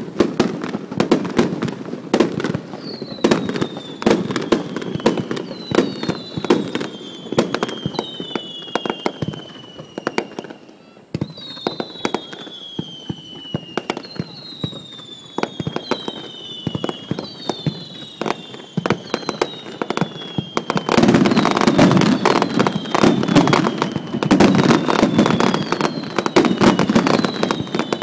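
Fireworks going off: a rapid run of sharp bangs and crackling, with falling whistles repeating about once a second through the middle. The bangs grow denser and louder in the last several seconds.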